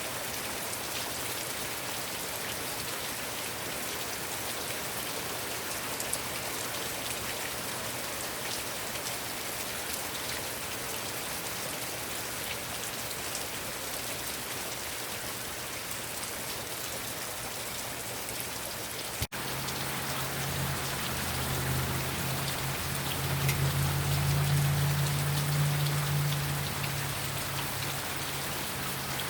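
Heavy rain falling steadily, a dense even hiss of drops hitting surfaces. After a brief dropout about two-thirds of the way through, a low hum joins the rain, swelling and then fading.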